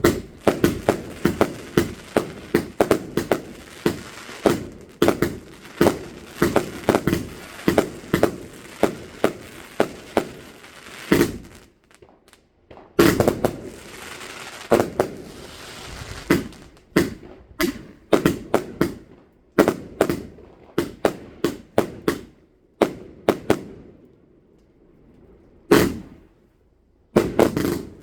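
Fireworks going off in rapid runs of sharp bangs with crackle between them. There is a brief pause about twelve seconds in, and only a few scattered single bangs near the end.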